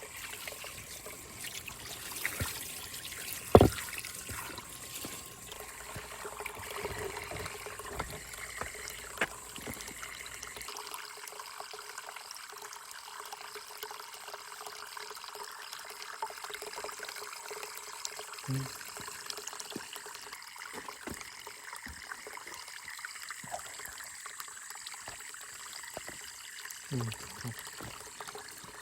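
Water trickling steadily over stones in a small pump-fed tabletop stone waterfall basin. A sharp knock sounds about three and a half seconds in, with a few lighter clicks later.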